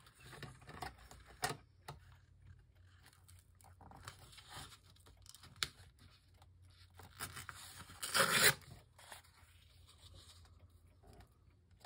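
Patterned craft paper being handled and torn on a glass craft mat: scattered rustles and scrapes, with one louder rip about eight seconds in.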